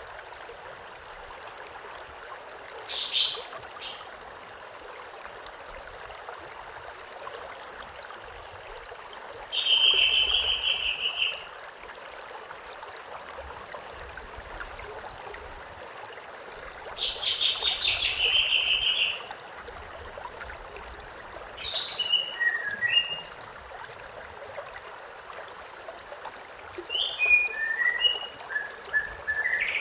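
Steady rush of flowing river water, with a songbird singing short chirping phrases every few seconds, two of them longer trills.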